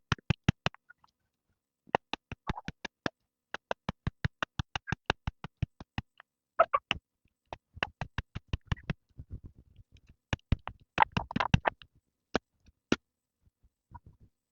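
Runs of rapid, sharp clicks or taps, about six to eight a second, broken by short pauses.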